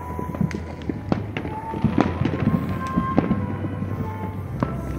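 Fireworks going off across the city: many sharp bangs and crackles, the loudest about two to three seconds in, with music playing underneath.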